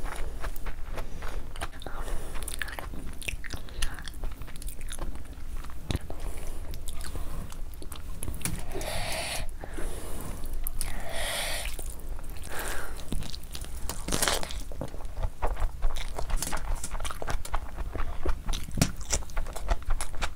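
Close-miked chewing of mouthfuls of mutton curry and rice, full of small wet clicks and smacks, with two brief louder hissing sounds about nine and eleven seconds in.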